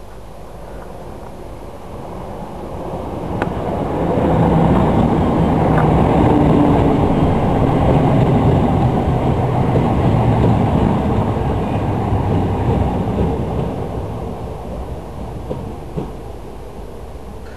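Electric commuter train running through the station: its rumble builds over a couple of seconds, holds, then slowly fades away, with a few sharp clicks along the way.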